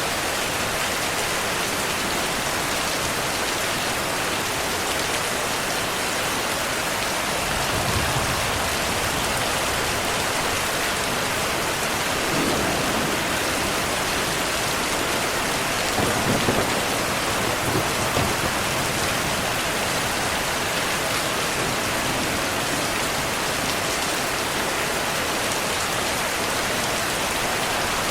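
Steady rain falling, an even hiss, with a few low rumbles of distant thunder swelling under it about a third and halfway through.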